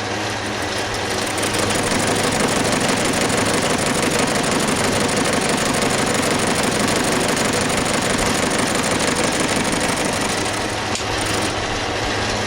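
Belt-driven engine lathe running through its intermediate shaft, a steady mechanical din that grows louder about a second in and eases slightly near the end.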